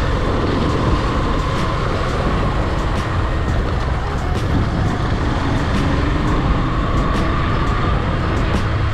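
Motorcycle riding at speed: steady wind rush over the microphone with the engine and road noise running underneath.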